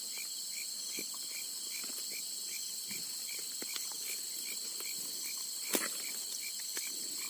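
Night insects such as crickets trilling steadily in several high, continuous tones, with a separate short call repeating about three times a second. A single sharp click sounds about two-thirds of the way through.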